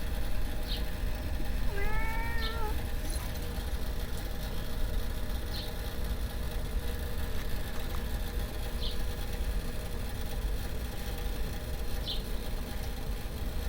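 A cat meows once, briefly, about two seconds in, over a steady low rumble. Short high chirps recur every few seconds.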